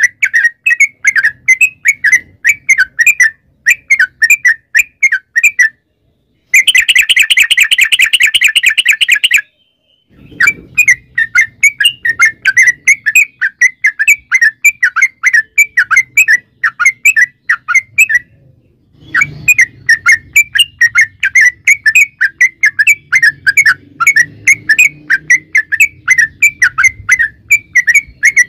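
Yellow-vented bulbul (trucukan) singing: long phrases of loud, rapidly repeated chattering notes, broken by brief pauses. About six seconds in comes a three-second run of much faster notes, the long rapid roll (ropel panjang) used as a lure song.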